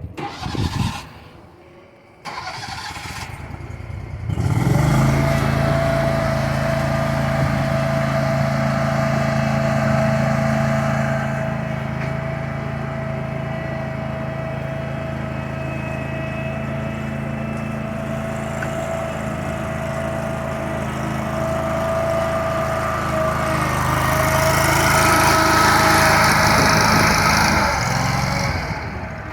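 A few knocks, then a Toro Dingo compact loader's small engine starts about four seconds in and runs steadily. It grows louder near the end, then falls away shortly before the end.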